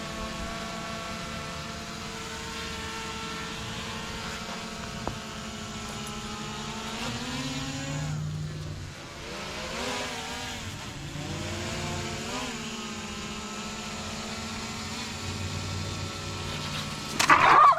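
Small quadcopter drone hovering, its propeller whine a stack of tones that shifts up and down in pitch as it manoeuvres. A sudden loud burst of noise near the end.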